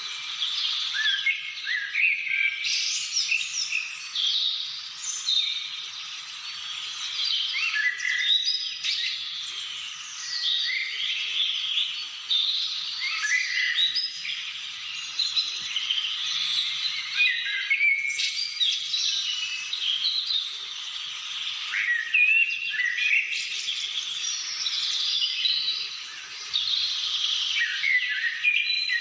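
A chorus of birds chirping and calling, with many short, quick notes overlapping without a break.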